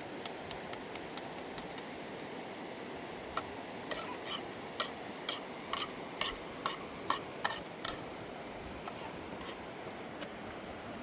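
Steady rushing of a river, with a run of about a dozen short scraping strokes, roughly two a second, in the middle.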